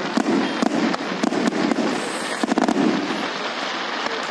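Fireworks going off: a rapid, irregular string of sharp bangs and cracks over a continuous rumbling din of further explosions.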